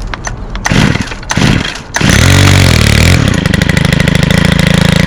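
Stihl FS91R string trimmer's 28cc 4-MIX engine being pull-started cold on choke: two quick rope pulls, then it fires about two seconds in. It swings in speed for a moment, then settles into steady running.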